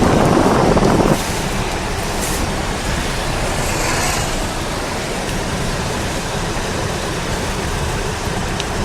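A car driving, its steady road and tyre noise louder for about the first second and then settling, with a faint hiss swelling briefly partway through.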